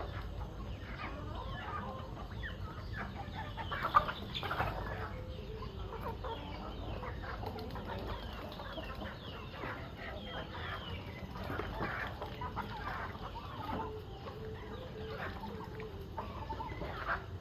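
A flock of chickens clucking, many short calls overlapping, at feeding time. A single sharp knock stands out about four seconds in.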